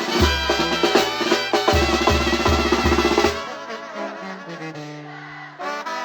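Banda (Mexican brass band) playing: brass melody over a low, pulsing bass line with drums. About halfway through the bass drops out and the music thins and gets quieter, then fills out again near the end.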